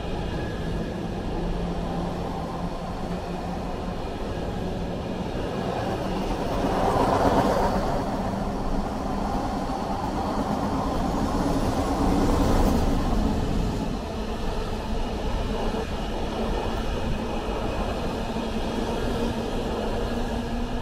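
Intermodal freight train hauled by Class 88 locomotive 88003 rolling past: a steady rumble of wheels and wagons, swelling louder twice, about a third of the way in and again just past halfway.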